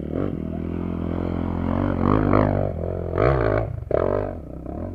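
Trail motorcycle engine running, revved up and down in several surges about two, three and four seconds in.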